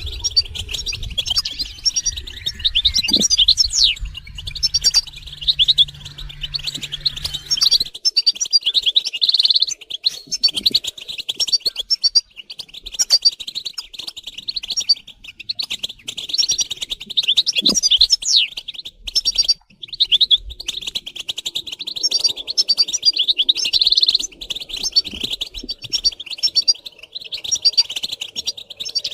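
Several European goldfinches twittering and calling together in a dense, unbroken stream of fast high chirps and trills. These are the males' mating and readiness calls, used to get a caged goldfinch to sing. A low hum underlies the first several seconds.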